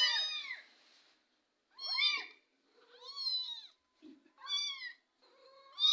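Young kittens mewing: about five thin, high-pitched calls, each rising and then falling in pitch, spaced roughly a second apart with short silences between. These are the calls that bring the mother cat to them.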